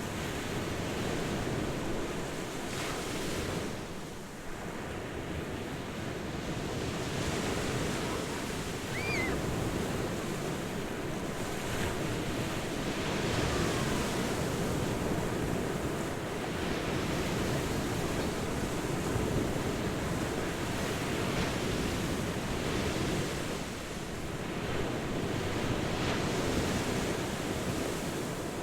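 Ocean surf: waves breaking and washing in, a continuous rushing that swells and eases every few seconds.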